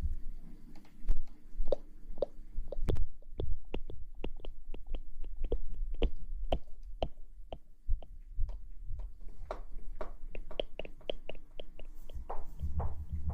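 Close-miked ASMR trigger sounds: a run of short soft clicks or taps, about three to four a second and uneven, over a faint steady hum.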